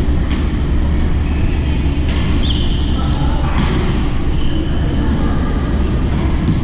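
Badminton rally: sharp racket strikes on the shuttlecock about a second and a half apart, with brief high squeaks, over a steady low rumble.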